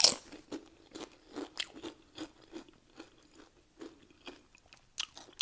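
A bite into Doritos nachos with a loud crunch at the start, then crunchy chewing of the tortilla chips, about two crunches a second, with another sharp crunch near the end.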